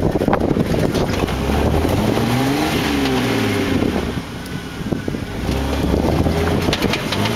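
Jeep Wrangler Rubicon engine revving up and easing off as the Jeep crawls over rocks, with a second rise in revs near the end. Wind noise on the microphone and scattered knocks are heard along with it.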